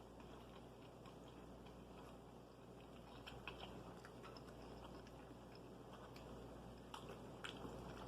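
Near silence: room tone with a steady low hum and a few faint scattered clicks, more of them in the second half.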